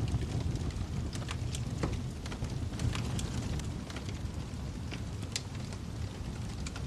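Fire in a fireplace crackling: irregular sharp pops and snaps over a steady low rumble of the flames, with one louder pop about five seconds in.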